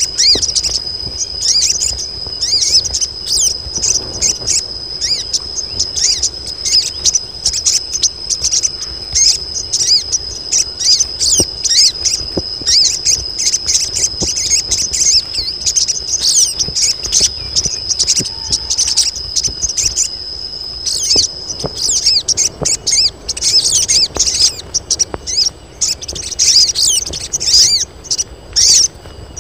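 A group of female sogon birds calling: dense, rapid high chirps and twitters overlapping one another, typical of hens in breeding condition calling for a male. A steady high insect-like whine runs beneath them and stops about three-quarters of the way through.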